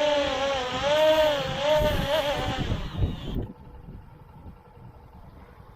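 C-Fly Faith 2 quadcopter's propellers whining, the pitch rising and falling as the motors change speed, then dying away about two and a half seconds in as the motors stop. Wind rumbles on the microphone.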